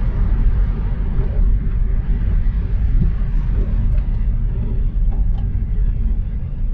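Steady low rumble of a car driving on a snowy street, heard from inside the cabin: engine and tyre noise.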